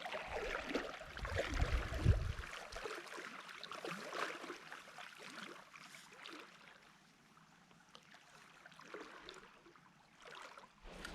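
Shallow brook trout stream running and gurgling, with a low rumble on the microphone during the first three seconds, fading quieter later on.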